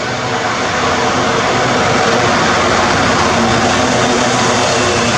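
A train running through the station at speed without stopping: loud, steady rumble and roar of wheels on the rails, building over the first couple of seconds and then holding.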